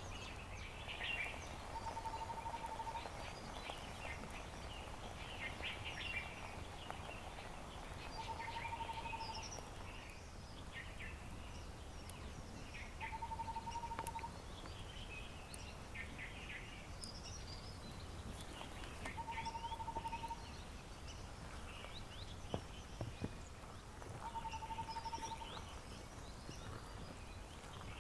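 Several wild birds calling and singing in a mix of short chirps, with one bird giving a short, level, low trill about every five seconds. A steady low hum runs underneath.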